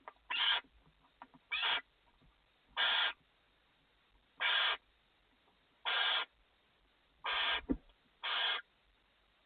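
Barn owls in a nest box giving their rasping hiss, the 'snoring' food call. It comes as seven short hisses spaced about a second and a half apart, with faint scratching clicks between them and one sharp knock about three-quarters of the way through.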